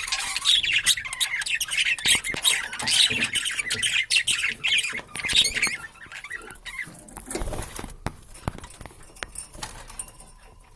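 Budgerigars warbling and chattering in a fast stream of chirps and squawks; after about six seconds the chatter thins to scattered clicks and a few soft knocks.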